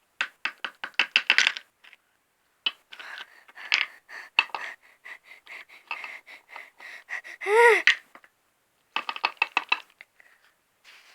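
Quick bursts of sharp clicks and taps from small hard plastic toy figures being handled and set down. About three-quarters of the way through comes one short squeak that rises and then falls.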